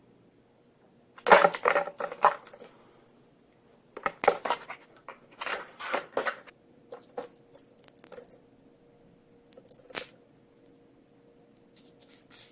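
Hard objects clattering and clinking together in several short bursts, with a bright ring on each knock; the loudest burst comes about a second in.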